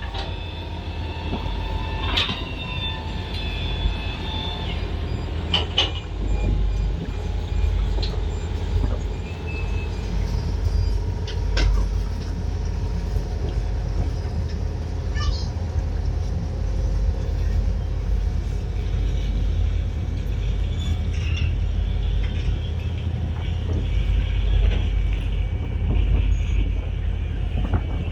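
Boat engine running steadily with a constant low rumble, a few short clicks or knocks heard over it.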